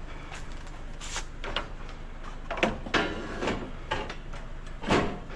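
Steel bed rails being shifted and set down in a trailer: a series of separate metal knocks and clunks, the loudest near the end.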